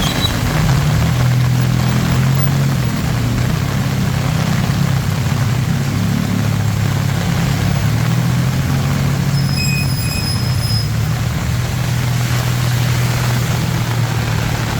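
Road traffic in heavy rain: a vehicle engine running steadily close by over the even hiss of rain. A brief high-pitched squeal sounds about ten seconds in.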